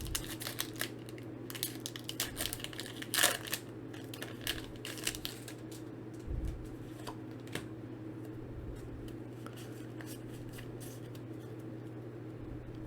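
A foil booster-pack wrapper crinkling and tearing, with cards being handled: a run of rustles and small clicks in the first half, thinning to occasional faint ticks later.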